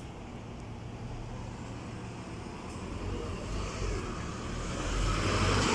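Scania K230UB bus engine running with a steady low drone, growing louder toward the end with a rising rush of noise.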